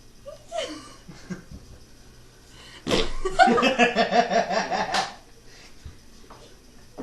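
A person laughing: a short giggle near the start, then a loud burst of rapid, rhythmic laughter about three seconds in that lasts about two seconds.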